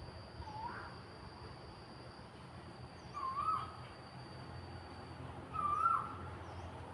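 An animal calling three times, short wavering calls a couple of seconds apart, the last two louder. A steady high insect-like drone and a low hum run underneath.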